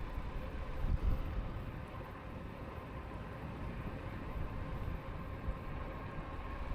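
Riding an e-bike at speed: wind buffeting the microphone and tyres rumbling on the path in an uneven low rush. Under it runs a faint steady whine from the bike's hub motor.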